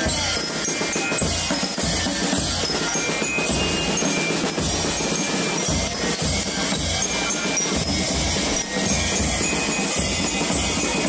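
Marching band playing in a street procession, with a regular bass drum beat under the other instruments.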